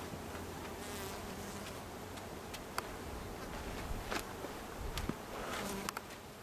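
Swarm of honeybees buzzing as a steady low hum, with a few sharp clicks scattered through it.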